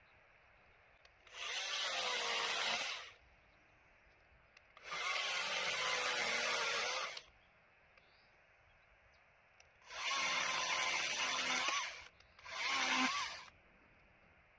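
Electric chainsaw cutting through the wood of a wind-felled cherry tree in four short bursts, each one to two seconds long, the motor's whine dipping as the chain bites into the wood.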